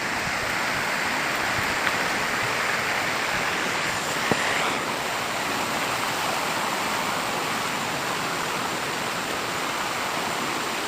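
Steady rush of flowing stream water, with two faint clicks.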